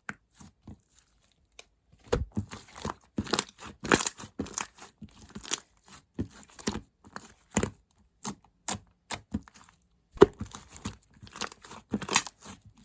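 Clear slime with grape clay mixed on top being squeezed and stretched by hand, giving a dense run of sticky crackles and small pops. It starts about two seconds in and pauses briefly near the end.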